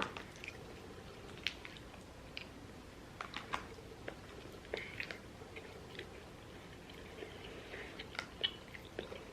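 People chewing and eating food, with scattered small mouth clicks and smacks.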